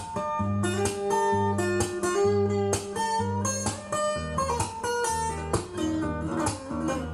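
Guitar music played back from a vinyl record on a Lenco L30 belt-drive turntable: plucked guitar notes over a bass line that repeats about once a second.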